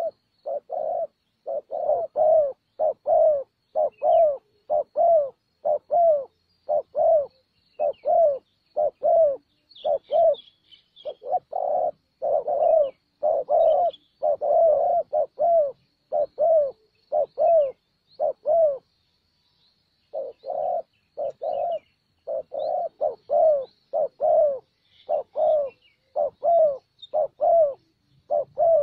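Spotted doves cooing over and over in a steady rhythm of low notes, about one or two a second, with a short break about two-thirds of the way through. Faint high chirps from small birds sound above them.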